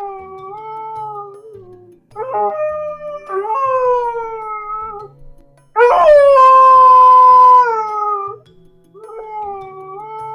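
A dog crying: a series of drawn-out, wavering whining howls, each a second or two long, the loudest and longest about six seconds in.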